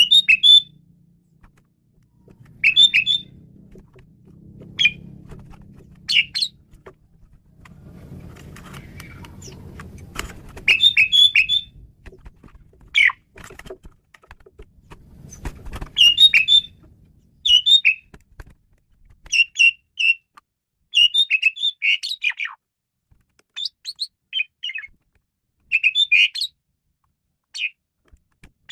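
Male Asian pied starling singing: a string of short, varied chattering and whistled notes, one every second or two, some in quick clusters. A low rumble runs under the first half.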